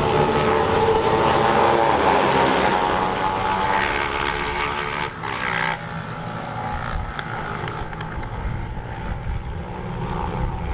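Racing motorcycle engines at high revs, the engine note bending up and down as bikes pass. About halfway through the sound drops abruptly to a quieter, steady engine drone.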